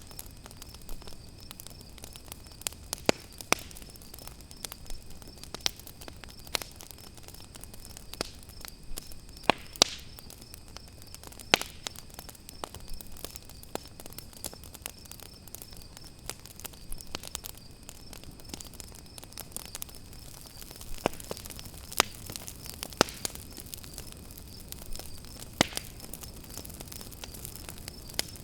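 Campfire crackling, with irregular sharp pops and snaps, over a steady high chirring of crickets.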